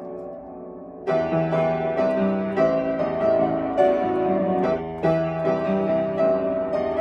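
Solo piano playing: a soft chord dies away, then a louder phrase of struck notes and chords starts about a second in.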